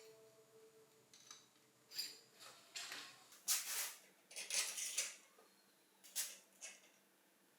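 A series of short scrapes and clicks from hand work on metal bicycle parts, about six in all, the loudest around the middle.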